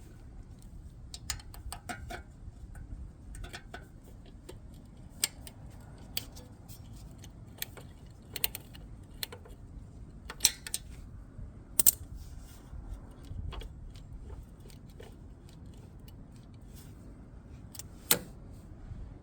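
Hand tools clinking and clicking against metal: scattered sharp metallic clicks at an irregular pace, the loudest about twelve and eighteen seconds in, over a low steady rumble.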